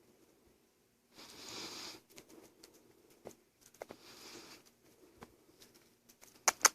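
Sugar glider eating a blueberry: faint small clicks of chewing, with two short rustling hisses and a few sharper clicks near the end.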